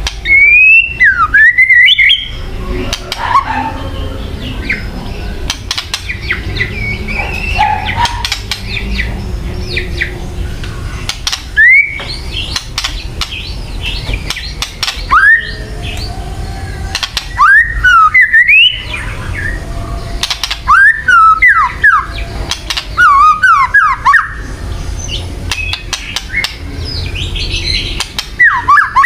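Harsh rattling 'kretekan' calls of a songbird, mixed with quick downslurred whistled notes. The calls come in loud bursts of one to two seconds at irregular intervals, about seven times, over a steady low hum. This is the provoking call played to train white-rumped shamas to fight.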